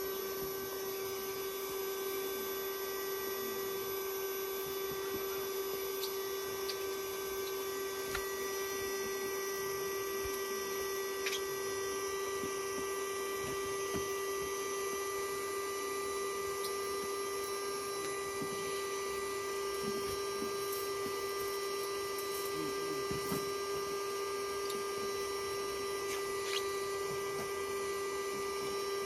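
A steady hum at one pitch, with several fainter steady high tones over it and a few faint ticks.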